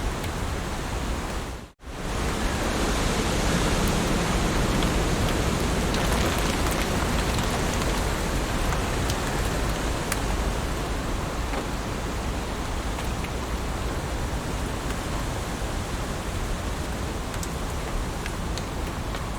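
Heavy rain falling steadily, an even hiss with scattered drop ticks; the sound cuts out for a split second about two seconds in.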